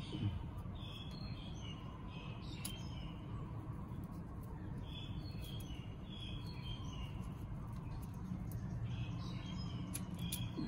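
Birds chirping over a steady low background rumble, with a few short sharp clicks; the last and loudest, near the end, comes as scissors close on jute twine.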